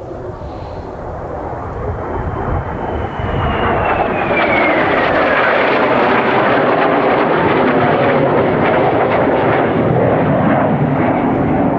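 Jet aircraft passing close by: a high whine falls in pitch over a few seconds while the engine noise grows loud, then holds steady.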